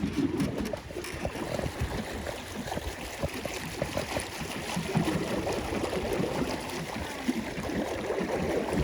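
Water splashing and gurgling around a pedal-driven paddle boat on the water, an uneven sloshing.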